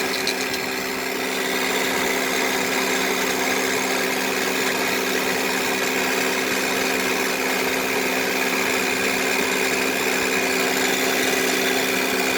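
2010 Honda Odyssey idling with the AC on, its power steering pump giving a steady hum with several held tones that step up slightly about a second and a half in. The owner takes it for a noisy power steering pump, with bubbles still showing in the fluid reservoir.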